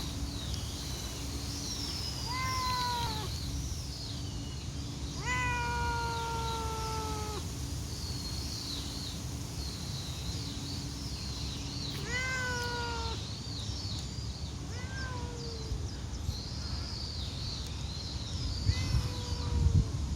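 Calico cat meowing repeatedly, about five drawn-out meows that each fall in pitch; the second one, about five seconds in, is the longest. Unusually talkative meowing.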